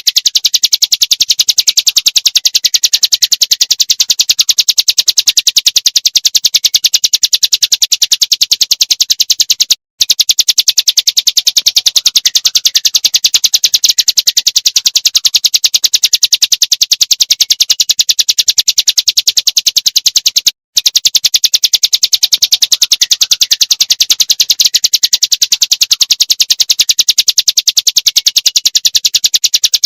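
Small songbird's rapid 'tembakan' trill, high-pitched notes repeated very fast with hardly a pause, as used in a masteran recording for training songbirds. It breaks off for a split second twice, about a third and two thirds of the way through.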